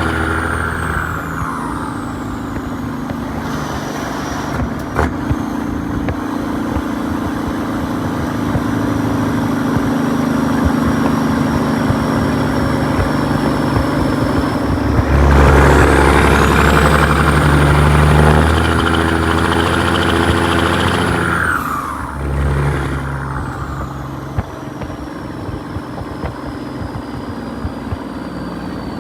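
1998 Peterbilt's Caterpillar 6NZ (3406E) inline-six diesel running under way. About halfway through it pulls harder and gets louder, with a high whistle climbing with it. About six seconds later the throttle comes off: the whistle and engine note fall away, as at a gear change.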